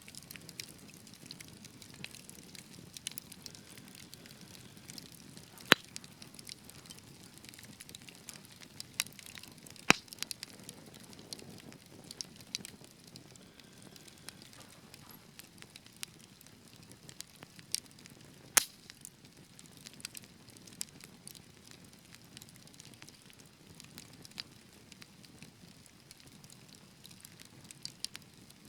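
Wood fire burning with a soft steady hiss and scattered sharp crackles and pops, a few louder pops standing out about six, ten and nineteen seconds in.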